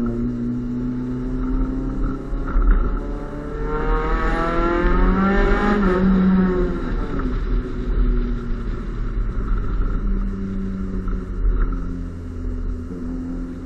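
Honda Civic's D15B2 1.5-litre four-cylinder engine running through an Invidia aftermarket exhaust. It runs steadily, then the revs climb from about three and a half seconds in, peak near six seconds and fall back to a steady note.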